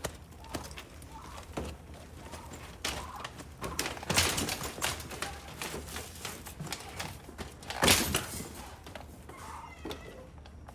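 Knocks, thunks and scraping from a chick brooder being cleaned out by hand, with a rough scraping stretch in the middle and one sharp loud knock near the end. A turkey gobbles near the end.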